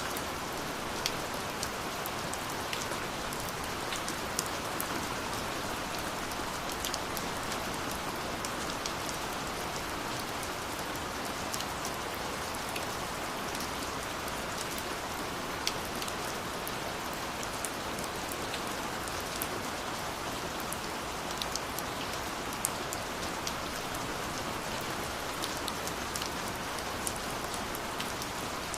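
Steady rain falling, a constant hiss with scattered individual drops ticking sharply through it.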